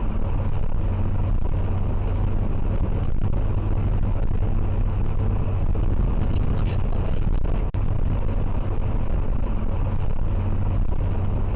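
Steady engine and road rumble of a car driving, as picked up by a dashcam, with a brief dropout about eight seconds in.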